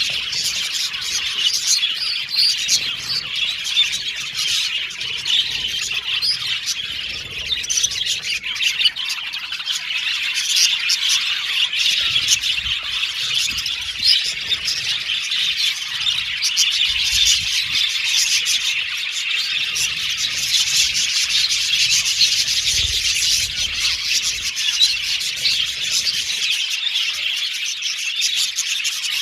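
Many budgerigars chirping and chattering together at once: a steady, dense stream of short chirps and warbles.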